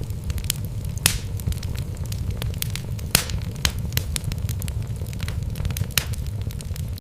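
Wood logs burning in a fireplace: irregular sharp crackles and pops, the strongest about a second in and about three seconds in, over a steady low rumble of the flames.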